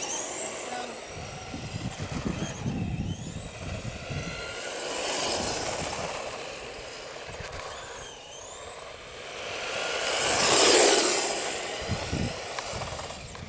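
1/10-scale electric RC stadium truck driving on pavement, its motor whine rising and falling as it speeds up and slows, with tyre noise. The sound swells twice, loudest about eleven seconds in.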